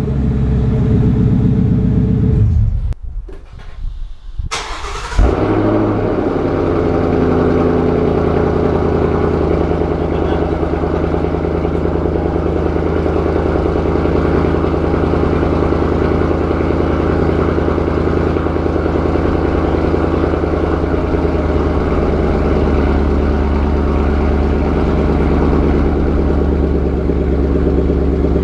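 2015 Ford Mustang GT's 5.0-litre V8 through its exhaust: it runs, cuts out for about two seconds, then starts with a sharp burst about four and a half seconds in and settles into a steady idle.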